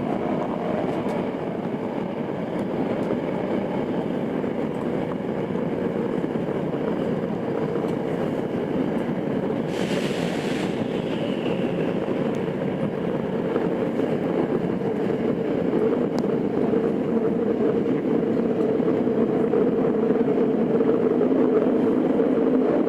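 Tokyo Metro 02 series subway train running, heard from inside the car: a steady rumble of the wheels on the rails, with a brief hiss about ten seconds in and a steady hum that comes up and grows slightly louder in the last few seconds.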